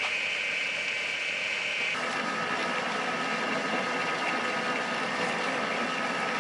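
Lathe spindle motor running with a steady whine after spinning up. About two seconds in, the tone shifts and a rougher cutting noise joins as a drill bit fed from the tailstock bores into the spinning workpiece.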